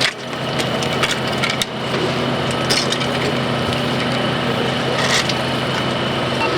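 A small engine runs steadily, overlaid with scattered cracking and crunching sounds, one sharp crack at the very start.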